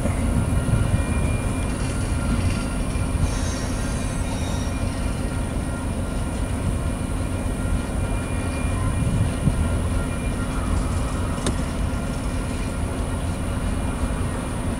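Covered hopper cars of a freight train rolling past: a steady rumble of wheels on the rails, with a faint high squeal from the wheels about three to four seconds in.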